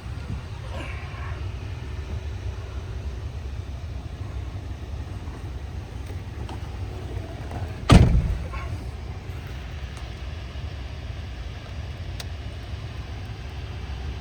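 Ford F-150 pickup truck running with a steady low rumble, and a single loud slam about eight seconds in.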